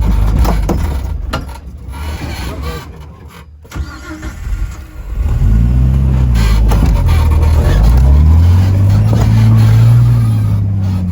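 Off-road vehicle's engine revving up and down under load while crawling over boulders, heard from inside the cab. It eases off a few seconds in, then the revs rise and fall again and climb to a loud, held pull through the second half.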